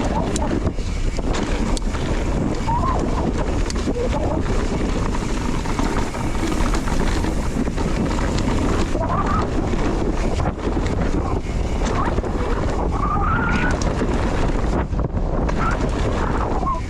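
Wind rushing over the microphone and the rumble and rattle of a mountain bike riding down a muddy trail, with many small knocks and clicks. A few short squeaks come in around the middle and later.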